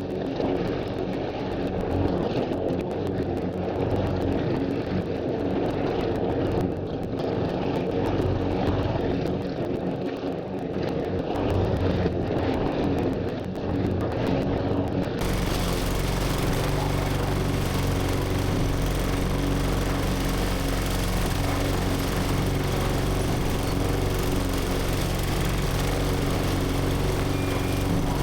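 Petrol self-propelled walk-behind lawn mower engine running steadily under mowing load. About halfway through the sound changes abruptly from dull and rough to a clearer, steadier engine note.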